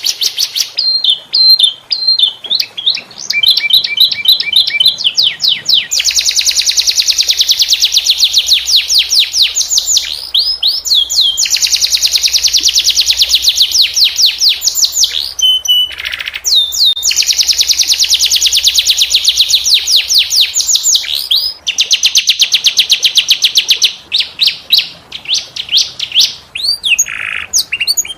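Domestic canary singing in long rolls of fast repeated notes, each run lasting several seconds, broken by short pauses and changes to a different note or trill.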